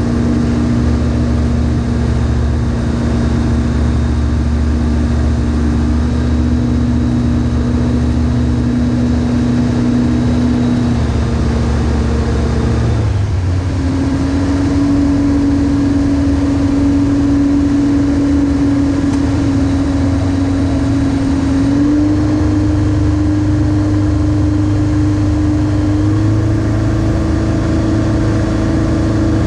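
Just Aircraft Highlander light aircraft's engine and propeller running steadily in flight. About halfway through the pitch dips briefly, then settles at a higher steady note, and it steps up a little twice more near the end: throttle being advanced.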